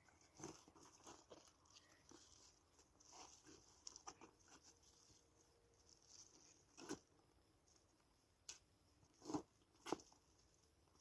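Faint, irregular crackling and clicking, with a few sharper knocks in the last few seconds.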